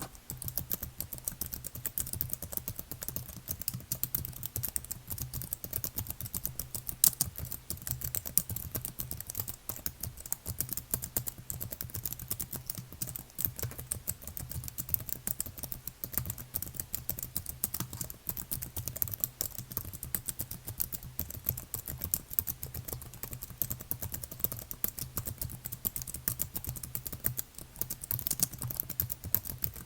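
Continuous fast typing on a computer keyboard, a dense run of key clicks with no pauses, one key struck a little harder about seven seconds in. A faint steady low hum sits underneath.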